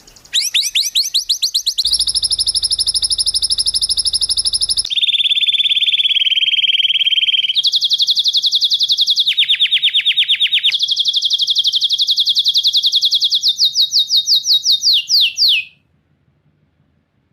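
Songbird singing sharp, very fast trills of rapidly repeated notes, changing abruptly in pitch and pattern several times. The last trill slows near the end and stops about 16 seconds in.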